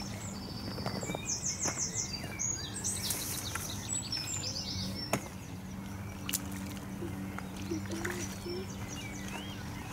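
Small songbirds singing and chirping, with quick trills about a second in and again around three to five seconds, over a steady low hum.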